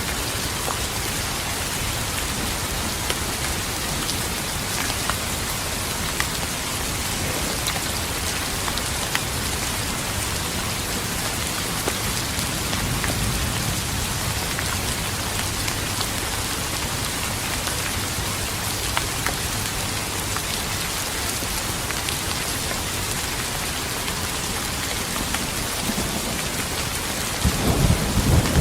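Steady rain pattering, with scattered individual drops ticking through it. Near the end, a low rumble of thunder rolls in and gets louder.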